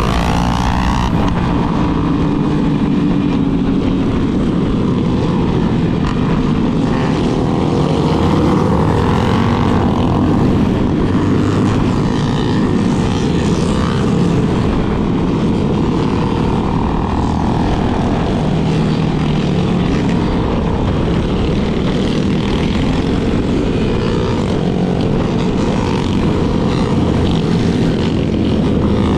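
Yamaha Lander 250's single-cylinder engine running steadily at riding speed, its pitch rising and falling a little with the throttle.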